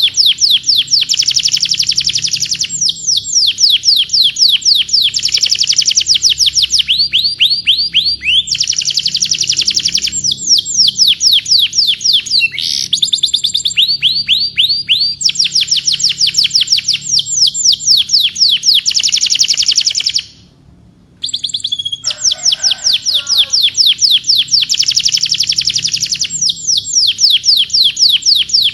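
Domestic canary singing: long rapid trills of evenly repeated downward-sweeping whistled notes, switching to a new trill every second or two, with a break of about a second some twenty seconds in.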